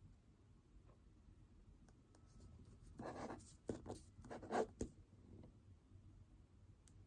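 Writing on paper: a short run of scratchy pen strokes about three seconds in, the last strokes the loudest, with faint room tone before and after.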